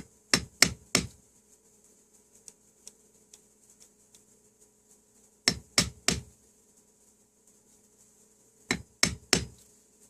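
Hammer strikes, three quick blows about 0.3 s apart, repeated in three groups: near the start, in the middle and near the end.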